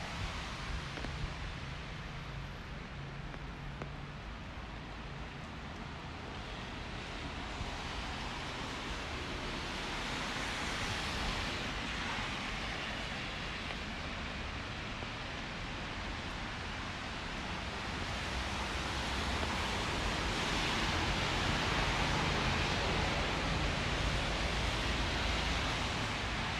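Steady hiss of a rainy city street, growing louder about ten seconds in and again from about eighteen to twenty-four seconds.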